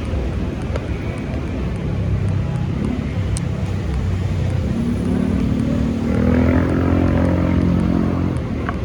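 Steady street-traffic rumble, with one vehicle engine passing close from about halfway through, its pitch rising a little before it fades near the end.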